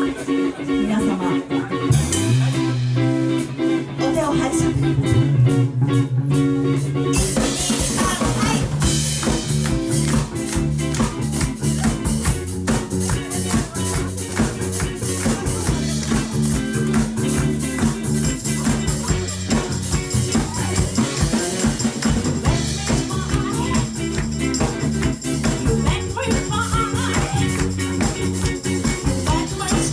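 Live rock band music with electric guitar and drum kit. A sparser opening gives way to the full band with drums about seven seconds in.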